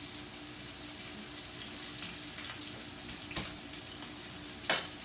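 Steaks searing in a hot skillet with oil and butter: a steady sizzle, with a sharp pop about three and a half seconds in and another near the end.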